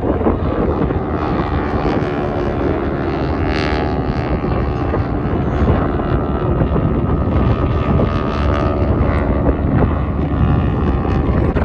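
A propeller airplane flying overhead. Its engine and propeller drone is steady for most of the stretch, over a low rumble of wind on the microphone.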